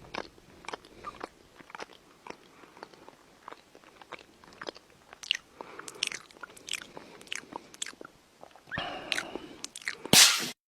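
Irregular crisp crunches and clicks, a few a second, like something being bitten and chewed. About nine seconds in they thicken into a louder rustling stretch, ending in a short loud burst.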